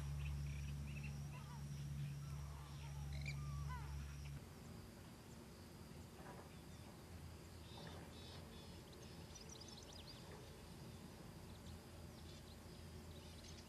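Faint, scattered bird calls in a wetland: a few short gliding calls early on, then thin high chirps later. A low steady rumble underneath stops suddenly about four seconds in.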